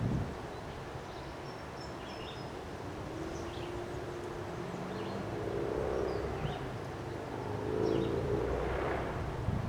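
Wind gusting on the microphone in a windstorm while a vehicle passes, its hum swelling to its loudest near the end. Short bird chirps come and go.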